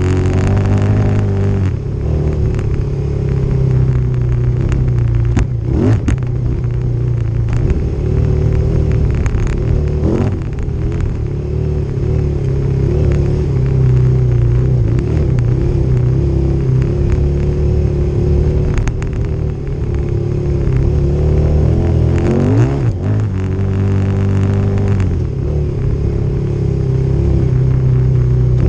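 Motorcycle engine running steadily under way, revving up in pitch briefly a few times, at about 6, 10 and 23 seconds in.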